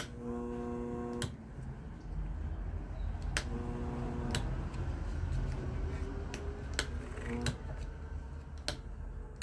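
A Tempware 20-inch high velocity fan's electric motor running on a speed controller with a steady low hum. A higher buzzing hum comes in for about a second twice, near the start and about 3.5 seconds in, and sharp clicks sound several times.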